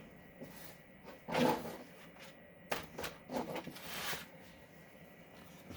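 Cardstock and paper being handled on a craft table: a few short rustles and light taps, the loudest about a second and a half in.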